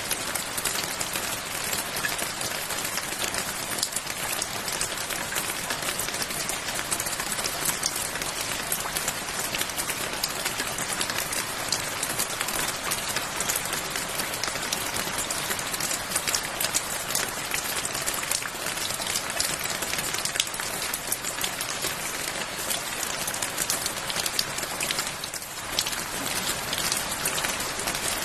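Steady rain falling, a dense patter of many individual drops over an even hiss, easing briefly near the end.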